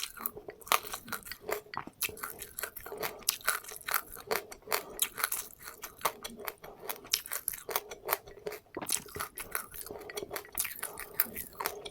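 A person chewing a mouthful of crunchy seeds with passionfruit, with rapid, irregular crunches several times a second.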